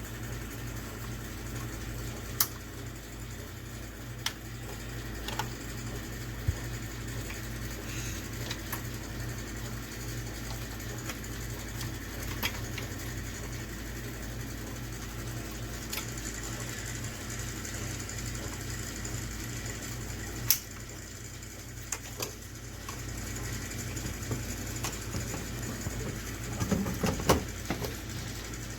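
Scattered sharp clicks and knocks of parts being handled and fitted as a microwave's control panel is put back on, with a busier cluster of knocks near the end, over a steady low hum.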